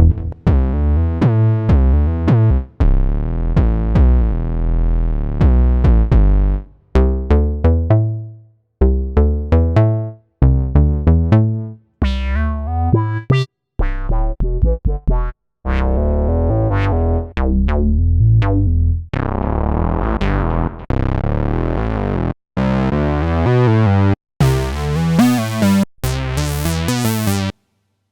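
Roland System-100 software synthesizer (emulation of the analog modular) playing short note phrases from one preset after another, the tone changing from patch to patch, some with sweeping filter brightness, with short silences between.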